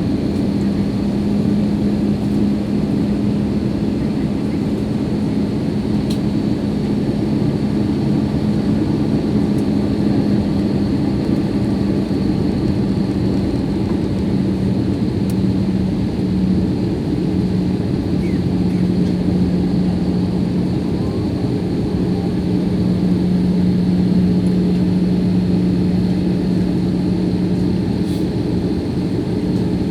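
Cabin noise inside a jet airliner on its landing approach: a steady rush of engine and airflow noise with a strong low drone whose pitch steps down slightly about halfway through.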